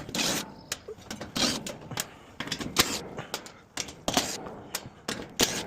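Irregular clicks, taps and scrapes of hands and tools handling the package unit's sheet-metal parts while it is being worked on.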